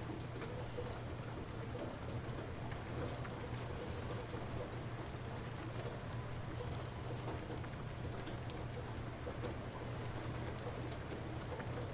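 Light rain falling steadily, an even hiss with scattered drop ticks.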